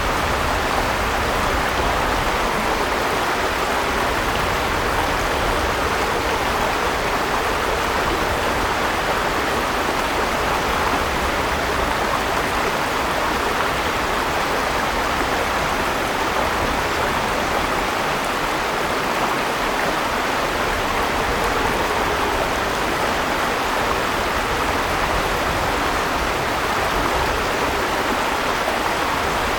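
Flowing river water rushing steadily, an even, unbroken noise.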